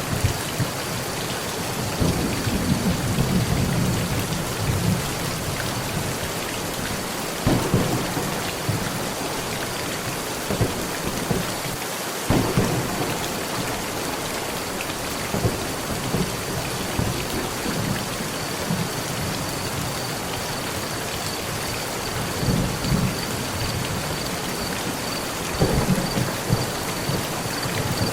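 Heavy rain falling steadily on a metal roof, with thunder rumbling again and again: a long rumble about two seconds in, sharper peals after about eight and twelve seconds, and more rumbles near the end.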